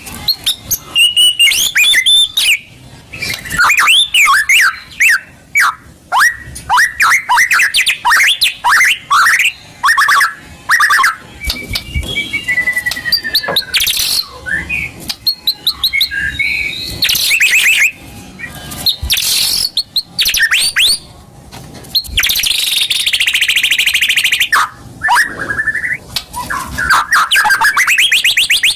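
White-rumped shama (murai batu) singing a fast, varied song of clear whistles, sweeps and trills. It is broken by harsh, rasping chatter about three-quarters of the way through.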